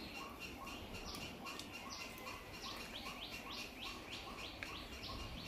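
A bird calling over and over in a quick, even series of short, falling chirps, about three a second.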